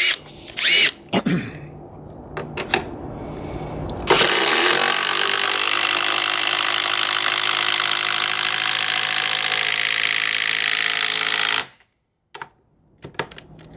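Metabo HPT (formerly Hitachi) 18-volt triple-hammer cordless impact driver hammering a 3/8-inch by 5-inch lag screw into wood. A steady, rapid impacting rattle starts about four seconds in and cuts off abruptly near the end as the screw is driven fully home. A few short knocks come before and after it.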